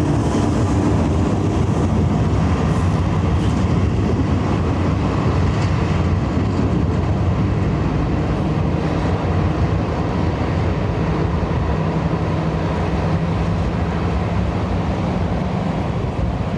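Airbus A380 jet airliner landing in a strong crosswind: a steady, heavy low rumble of its engines and airflow.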